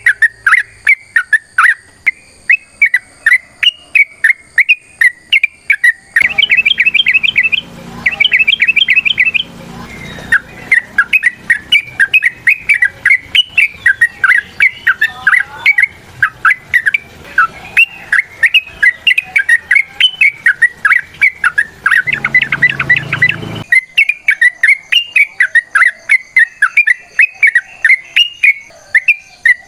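Yellow-vented bulbul (trucuk) singing a long, fast chattering song: a rapid unbroken string of short chirped notes, several a second, breaking twice into quicker rattling trills.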